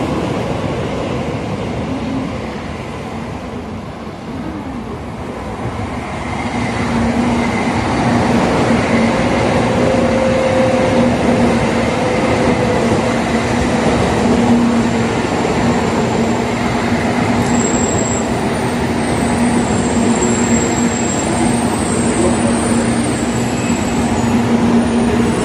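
Tokaido Shinkansen train running slowly alongside the platform: wheels rolling on the rails with a steady motor whine that grows louder about six seconds in. Faint high squeals join in during the latter half.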